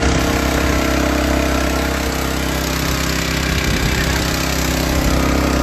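Small gasoline engine of a portable dewatering pump running steadily at idle.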